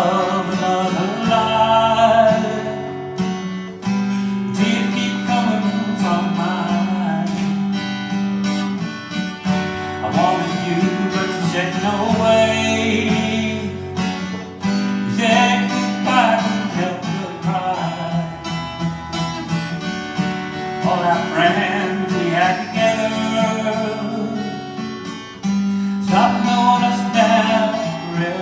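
Acoustic guitar strummed in a live song performance, with a melody line that rises and falls every few seconds over the chords.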